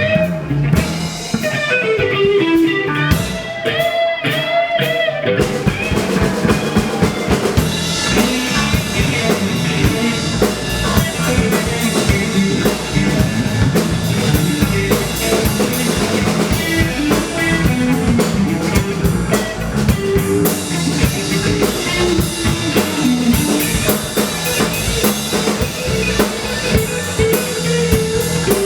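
Live band playing an instrumental passage: guitar and bass notes at first, with the drum kit and cymbals coming in about five seconds in and the full band playing on.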